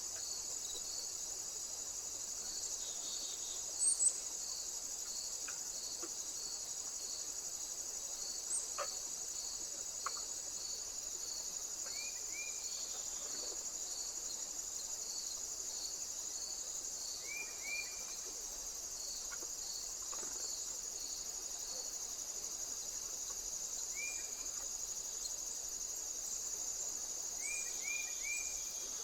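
Summer insect chorus: a continuous high-pitched buzz with a regular chirp pulsing about once a second. A few short high chirps come through now and then, and there are a couple of brief knocks about four seconds in.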